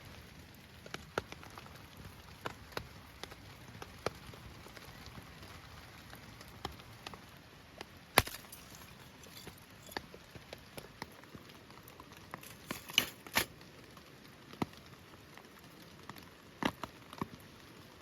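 Steady rain hiss with a small wood fire crackling, scattered sharp pops and snaps over it, the loudest about eight seconds in and a quick cluster around thirteen seconds.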